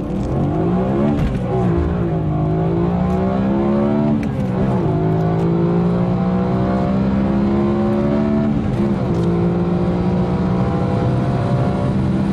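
BMW E90 M3's 4.0-litre S65 naturally aspirated V8 accelerating hard through the gears. Its pitch climbs steadily and drops at upshifts about four and nine seconds in.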